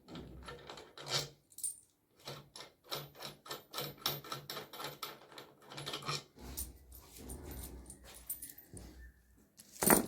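Rapid clicking and light knocking of hand-tool work on a washing machine, several clicks a second, with one sharp, loud knock near the end.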